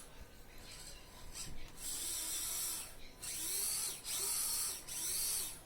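Repaired brushed motor of an Axial SCX24 crawler run in short throttle bursts, about four in a row in the second half, each a whine that rises and falls as the motor spins up and down. It runs smoothly now that its brushes are seated right.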